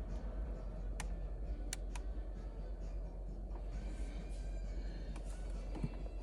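Porsche 911 Carrera 4S flat-six engine on cold idle, a steady low rumble, with a few sharp clicks around a second and two seconds in.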